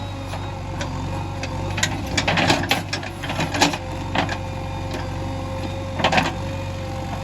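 JCB 3DX backhoe loader's diesel engine running steadily, with bursts of metallic clanking and rattling, about two to three and a half seconds in and again around six seconds.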